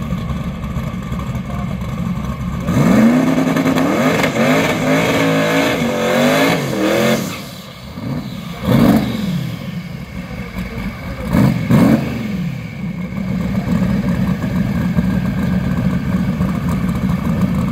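Twin-turbo Datsun 240Z drag car launching about three seconds in, after a steady idling rumble: its engine note climbs in pitch and drops back at each gear shift several times, then fades as the car runs away down the strip. A few shorter rise-and-fall engine revs follow later, over the steady rumble of idling engines.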